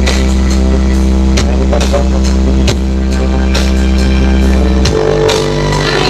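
Loud electronic dance music with a heavy, sustained bass line and a steady beat, played through a horeg truck-mounted sound system. The bass note changes about five seconds in.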